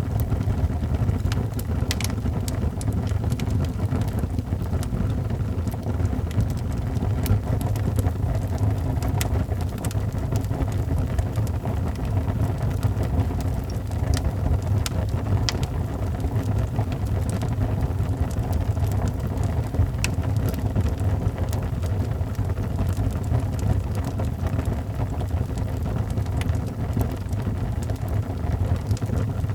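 Wood fire in a fireplace burning steadily with a low rumble, with scattered sharp crackles and pops.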